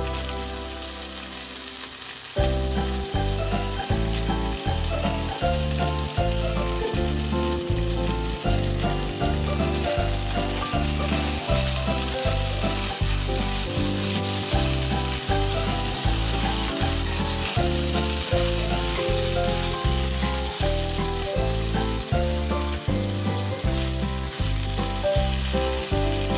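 Pork and potato slices sizzling as they fry in a nonstick pan, stirred now and then with a wooden spoon; the sizzle grows stronger in the second half. Background music with a steady beat comes in about two seconds in and runs under it.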